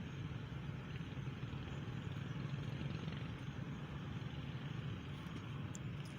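A steady low hum with a hiss, unchanging throughout, with no distinct knocks or clicks.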